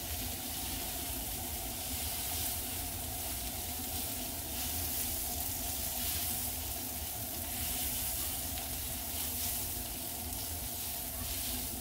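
Sliced onions and bell peppers sizzling on a hot flat-top griddle, a steady crackling hiss, while two metal spatulas turn and scrape them. A steady low hum sits underneath.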